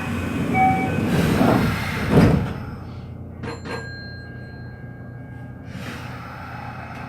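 Hanshin train's door-closing chime beeps twice, then the sliding passenger doors run shut with a thud about two seconds in. A couple of clicks follow, and the train noise swells again near the end.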